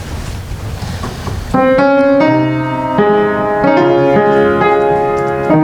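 A low rumbling noise, then about a second and a half in a piano starts playing chords and a melody line, opening the introduction to a song.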